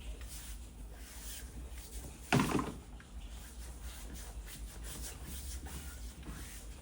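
Light clicking and rubbing of small toy cars being handled, with one louder knock about two seconds in.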